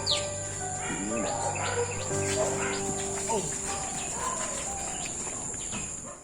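Outdoor ambience: a steady high-pitched insect drone with birds chirping repeatedly over it. It cuts off suddenly at the end.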